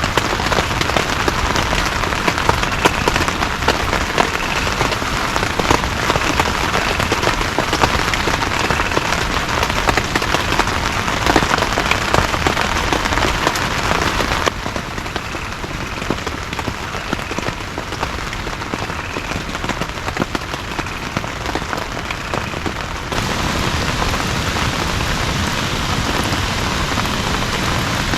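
Heavy rain falling steadily, a dense hiss with many individual drops pattering on a surface. It turns abruptly quieter about halfway through and comes back to full strength near the end.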